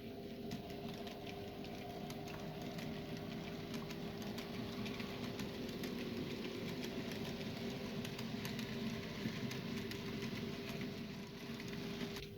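N gauge model diesel locomotive running round the layout with a train of hoppers, played back fast-forwarded. There is a steady motor hum with one held tone, and scattered sharp clicks from the wheels on the track.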